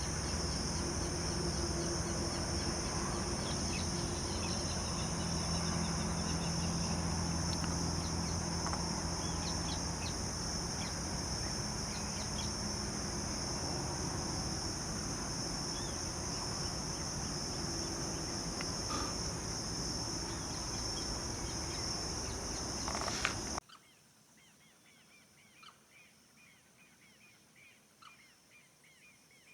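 Outdoor ambience of a steady high-pitched insect drone under a low rumble, with scattered short bird calls. Near the end it cuts off suddenly, leaving faint, repeated bird chirping.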